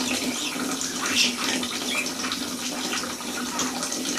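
Budgie chattering softly, a run of short chirps, clicks and warbles: the bird's contented 'love sounds'.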